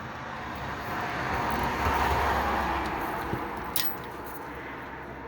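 A passing vehicle: its noise swells to a peak about two seconds in and then fades away. A short sharp click comes near the end.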